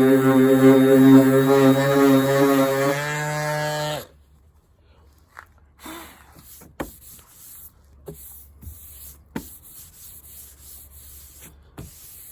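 Electric orbital sander with 240-grit paper running steadily on a car body panel. It is switched off about three seconds in and winds down, stopping around four seconds. After that there are faint rubs and light knocks.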